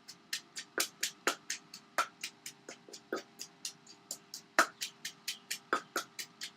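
Pestle pounding long beans and lime in a mortar for som tam: quick, regular knocks about four a second, some struck harder than others.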